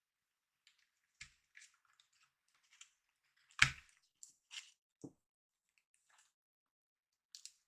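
Faint handling rustles and clicks, then one sharp click about three and a half seconds in as a RAM module is pressed into a motherboard memory slot and the slot's latch snaps home, followed by two softer clicks.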